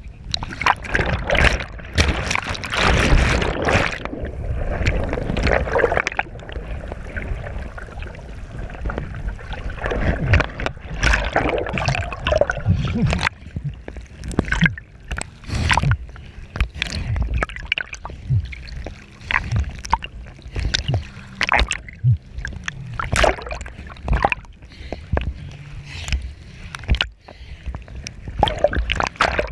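Water splashing and sloshing close to the camera in quick, irregular bursts.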